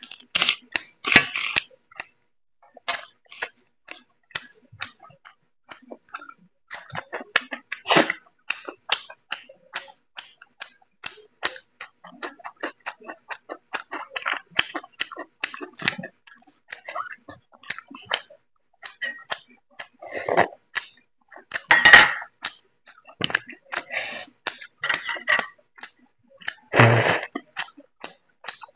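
Close-up eating sounds of a person chewing roti with chicken curry: a steady scatter of small wet mouth clicks and smacks, with a louder sharp crunch about 22 seconds in and a couple of breathy puffs.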